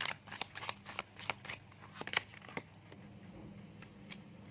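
Tarot cards being handled and shuffled: a quick run of light card snaps and flicks for the first two and a half seconds, then a few sparse clicks.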